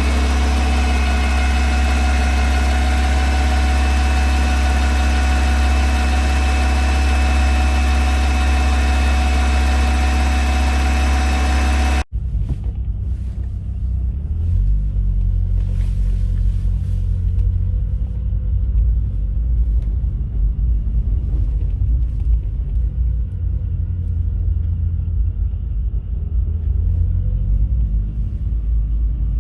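1986 Volkswagen Golf Mk2 running with a noise the owner calls a bad sound. For about twelve seconds there is a steady whine of several tones over a low drone. After a sudden cut a lower, unsteady rumble follows.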